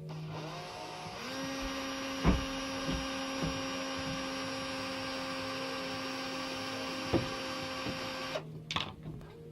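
Power drill motor spinning up, running at a steady speed for about seven seconds, then stopping, with a couple of sharp knocks along the way. It is drilling into corroded screws on a gas stove burner to take an easy-out screw extractor.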